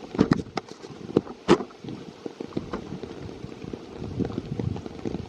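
Rain in the forest, with irregular sharp ticks and knocks, the loudest about a second and a half in.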